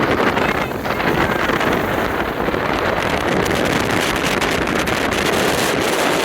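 Strong wind blowing hard across the microphone: a loud, steady rush.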